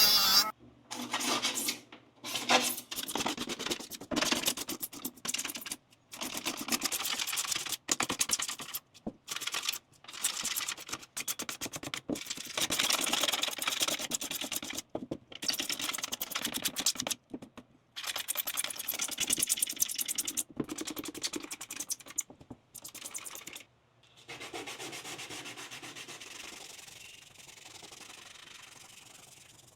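Sanding or rubbing by hand on a car headlight, in runs of quick back-and-forth strokes broken by short pauses. Over the last few seconds it turns into a softer, steadier rubbing that slowly fades.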